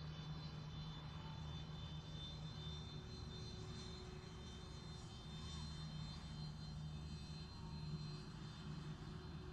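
Aircraft engines running steadily, heard from a distance: a low hum with a thin high whine over it.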